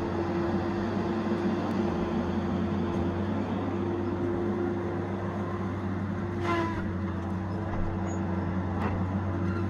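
Tigercat 870C feller buncher's diesel engine running steadily, with two sharp cracks in the second half.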